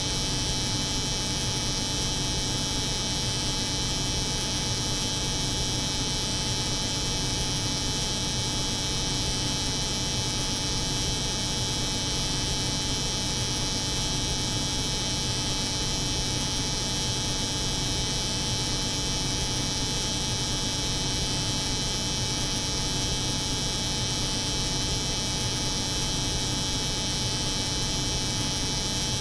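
Electric hair clipper buzzing steadily, layered with the hum of a cold room's refrigeration, as one unchanging drone with a bright hiss on top.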